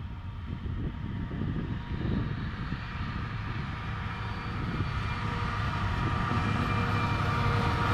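Freight train approaching, its rumble growing steadily louder, with a few faint steady tones coming up as it nears.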